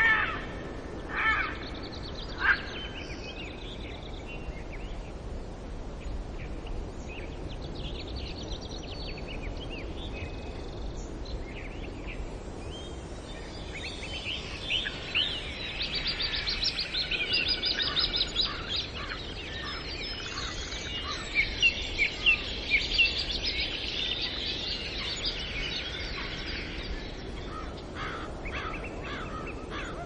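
Wild birds calling and chirping over a steady outdoor background noise. A few sharp calls come in the first seconds, then scattered chirps, then a dense, overlapping chorus of quick chirps from about halfway through that thins out near the end.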